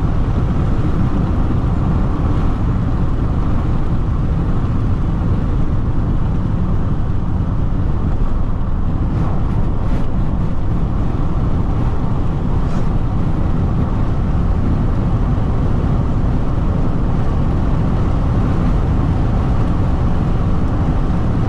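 Steady low rumble of road, tyre and engine noise from a Jeep Renegade diesel driving on the highway, heard from inside the cabin.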